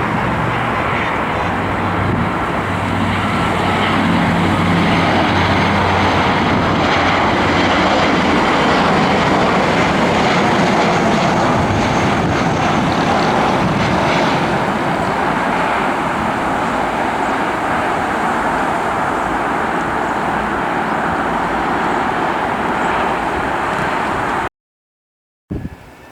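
Jet airliner engines running loud as the aircraft passes, a steady rushing noise with a low hum early on that builds and then slowly eases, cut off abruptly near the end.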